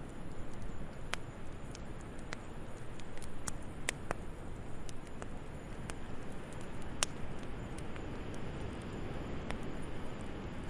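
Wood fire crackling in a fireplace: a steady soft hiss and rumble broken by irregular sharp pops and snaps, about one a second.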